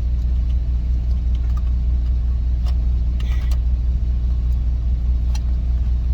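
Steady low engine drone inside a semi truck's cab, running evenly, with a few faint clicks over it.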